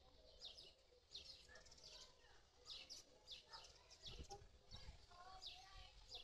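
Faint bird chirping: short, high chirps repeating about twice a second.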